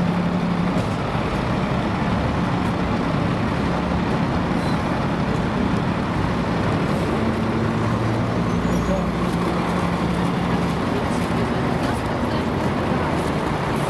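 MAN A23 articulated diesel city bus running steadily, heard from inside, a constant engine hum under cabin noise.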